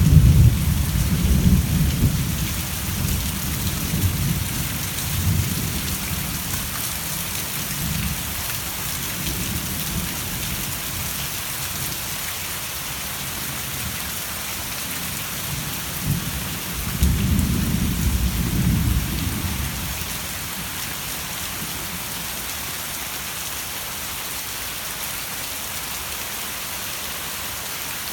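Steady heavy rain falling, with low thunder rumbling at the start that fades over several seconds, and a second rumble about 17 seconds in lasting a couple of seconds.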